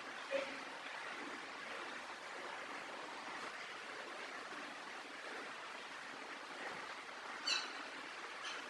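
A parrot giving one short, sharp call about seven and a half seconds in, over a steady background hiss, with a brief softer sound near the start.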